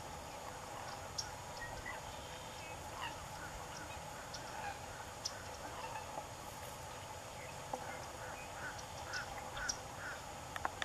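Distant bird calls, several short calls mostly in the second half, over a faint steady background hiss, with a few small sharp clicks close by.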